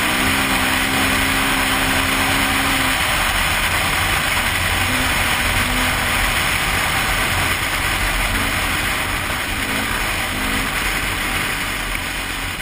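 KTM EXC 450 single-cylinder four-stroke enduro engine running at speed, with heavy wind noise on the helmet-camera microphone. The engine note holds steady for about three seconds, then eases and wavers.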